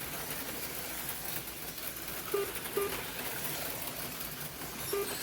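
HO-scale slot cars running laps on the track: a steady whirring hiss from their small electric motors and pickups on the rails. A few short low tones sound over it, twice close together about halfway and once near the end.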